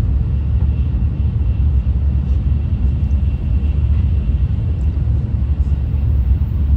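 Shinkansen bullet train running at speed, heard from inside the passenger cabin: a steady low rumble with a faint high whine over it.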